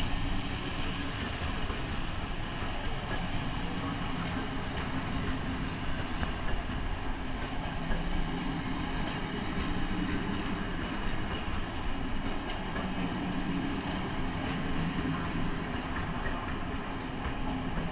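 A train running on the rails: steady running noise with a low hum and scattered faint clicks from the wheels on the track.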